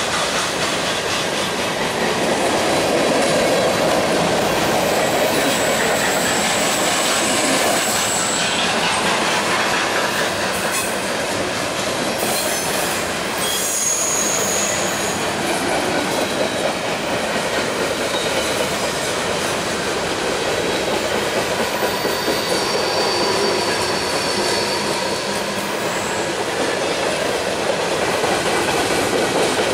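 Freight train flatcars loaded with trash containers rolling past, a steady rumble of steel wheels on the rails. A few brief high-pitched wheel squeals ring out over it, around 6, 14 and 23 seconds in.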